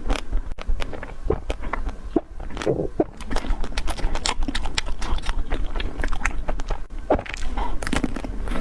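Close-miked eating of a Magnum ice cream bar: irregular crisp crackles and clicks from biting and chewing through the chocolate shell, with wet mouth sounds.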